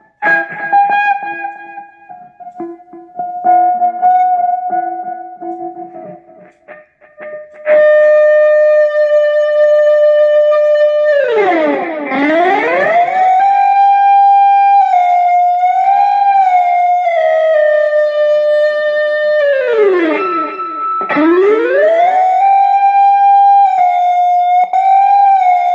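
Electric guitar through a JOYO Infinite Sustainer: a few plucked notes at first, then one note held on endlessly without fading. Twice the held note dives deeply in pitch and swoops back up, and in between it wavers with small bends, a theremin-like sound.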